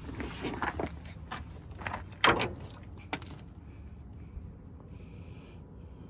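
Handling noises from someone working under a truck: rustling and a few knocks, the loudest a sharp knock about two seconds in.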